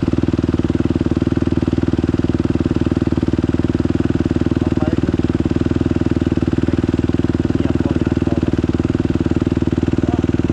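Dirt bike engine running steadily at one unchanging speed, with a fast even firing pulse and no revving.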